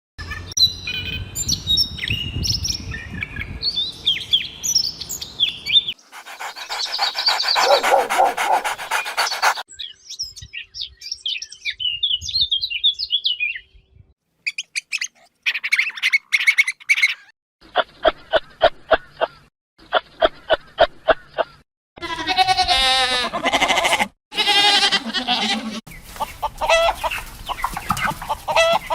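A string of short animal-call clips cut together: birds chirping and calling with quick rising and falling notes, then other animal calls, including a run of evenly pulsed calls, each clip cutting off abruptly.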